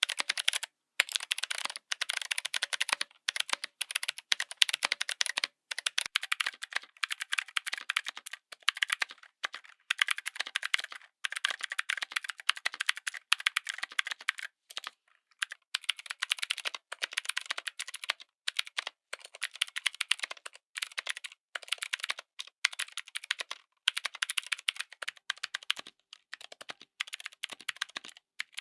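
Typing on a mechanical keyboard fitted with clicky switches: fast runs of sharp keystroke clicks, broken every few seconds by short pauses.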